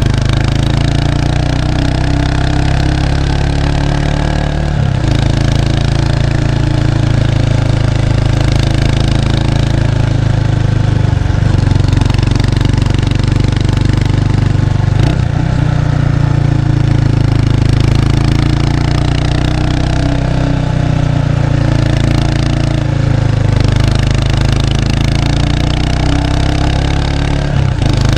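Exhaust of a 1993 Kawasaki Estrella's 250cc single-cylinder engine through its stock muffler, recorded close at the rear, running steadily while riding. The engine note breaks and steps in pitch briefly about four times, as at gear changes.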